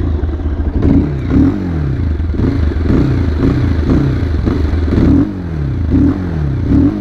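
Bajaj Pulsar 220F BS6's fuel-injected 220 cc single-cylinder engine and exhaust, revved with quick throttle blips about twice a second, dropping back toward idle between each blip.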